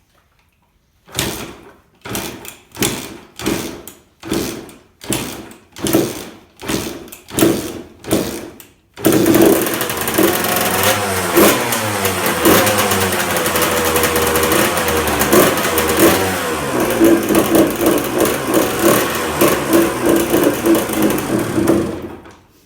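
1994 Honda CR125 single-cylinder two-stroke with a 144 cc big-bore kit, brought back to life after years without running: it sputters in a string of short bursts, nearly two a second, then catches about nine seconds in and runs. The throttle is blipped up and down, it settles to a steadier run, and it is shut off suddenly near the end.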